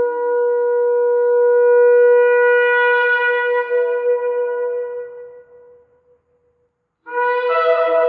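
A ram's-horn shofar sounding one long, steady-pitched blast that tapers off about five to six seconds in. After a brief silence, a new sustained sound of several layered tones begins near the end.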